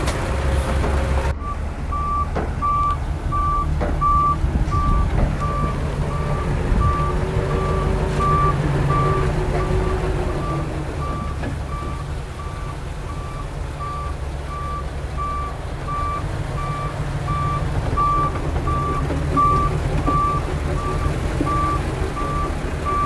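Dump truck's reversing alarm beeping steadily, about two high beeps a second, over the low rumble of its diesel engine.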